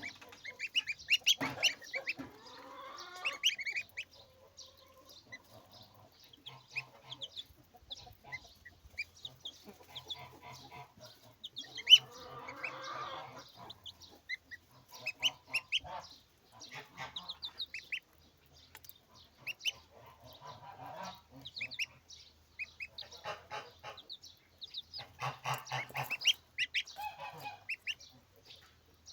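A poultry flock calling, with many short high peeps over lower clucking and honking calls. There is one sharp knock about twelve seconds in.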